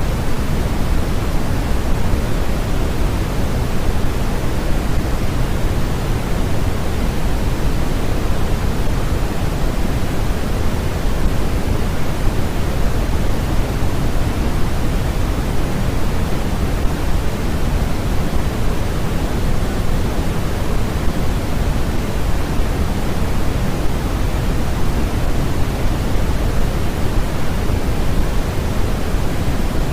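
Steady generated noise: a constant, unchanging hiss with most of its weight in the low end, closer to pink noise than to flat white noise.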